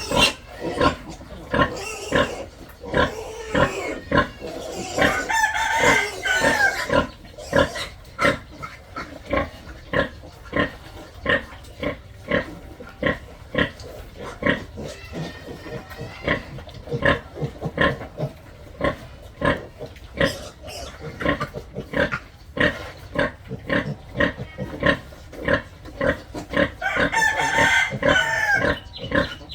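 Pigs grunting in a steady, even rhythm of short grunts, more than one a second. Higher, wavering squeals join in for a few seconds about four seconds in and again near the end.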